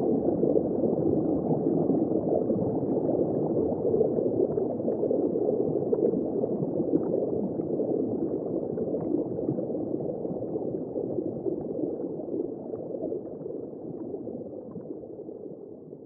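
Underwater ambience of dense, continuous bubbling and gurgling water heard from just below the surface, muffled, with small pops. It fades out gradually toward the end.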